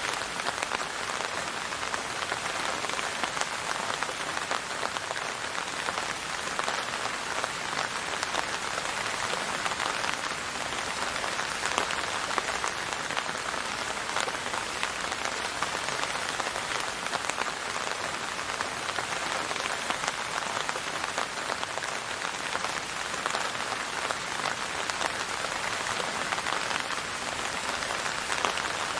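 Steady rain pattering on a surface, a dense, even hiss of many drops with no thunder or music.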